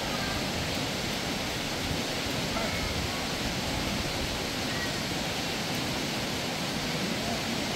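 Steady rushing noise, even and unbroken, with a few faint short high chirps.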